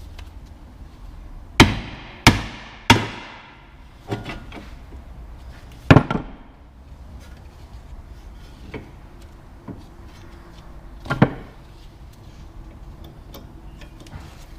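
Hammer blows during front wheel bearing work, each ringing briefly. Three come in quick succession about a second and a half in, then single blows about four, six and eleven seconds in.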